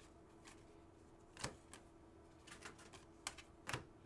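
Trading cards being handled and flipped through: a few faint, irregular sharp clicks and taps of card against card, the loudest three about one and a half seconds, three and a quarter and three and three-quarter seconds in, over a low steady hum.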